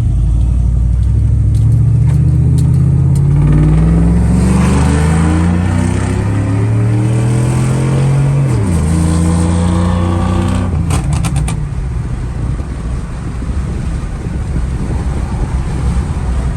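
Chevrolet 5.3 V8 breathing through long-tube headers and a full 3-inch exhaust with a Magnaflow Magnapack muffler, at wide-open throttle: the deep exhaust note climbs steadily for about eight seconds, drops suddenly as the transmission upshifts, climbs again, then the throttle lifts about eleven seconds in and it settles to a steady cruise. Heard from the cab with the windows down.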